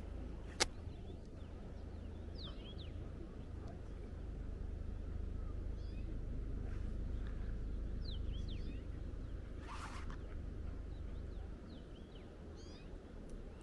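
Wild birds calling with short, high, falling chirps scattered throughout, over a steady low rumble. A single sharp click about half a second in, and a brief hiss near ten seconds in.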